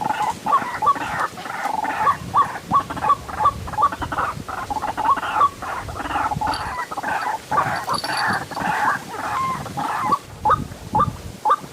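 White-breasted waterhens (ruak-ruak) calling over and over, with sharp croaking notes about two to three times a second over a continuous chorus.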